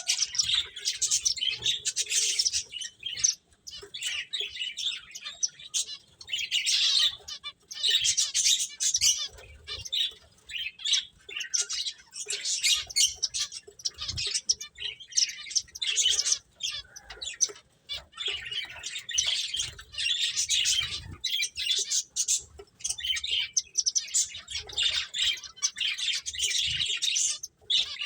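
A group of finches chirping: a dense, rapid chatter of short high chirps coming in clusters a second or two long, one after another.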